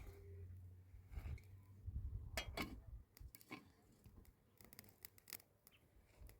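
A series of faint, short scratches and clicks, handling or scraping sounds, with the most pronounced ones about two and a half seconds in, over a low rumble that fades about halfway through.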